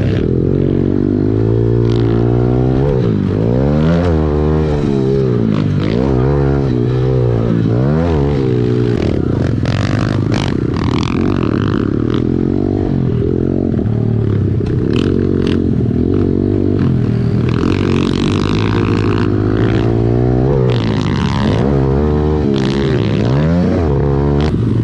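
Dirt bike engine revving hard and easing off over and over, its pitch rising and falling every second or two as the bike rides the track, with a steadier engine drone underneath.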